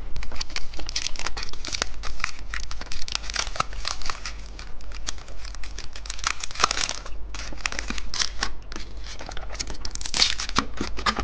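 Candy packaging being handled and torn open: a continuous run of crinkling and tearing crackles with louder flurries now and then.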